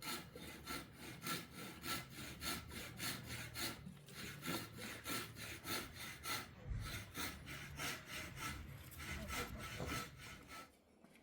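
Rhythmic rasping strokes, about three a second and evenly paced, with a faint ringing tone in each stroke; they stop about half a second before the end.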